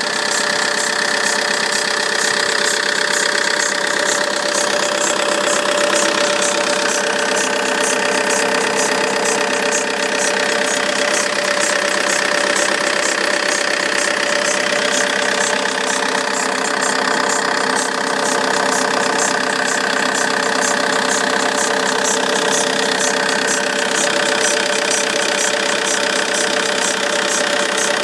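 Vauxhall Insignia 2.0 CDTI four-cylinder turbodiesel idling cold with a steady whine and a fast, even ticking. The noise appears only when the engine is cold, and the owner suspects the auxiliary belt or the alternator-side pulley or tensioner.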